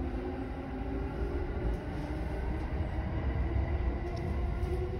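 Interior running noise of a JR 209-500 series commuter train car in motion: a steady low rumble of wheels on the track, with faint steady tones above it.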